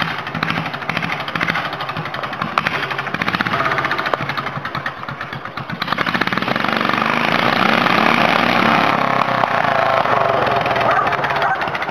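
Tractor engine running at full power under load in a tractor pull, getting louder about six seconds in and holding there.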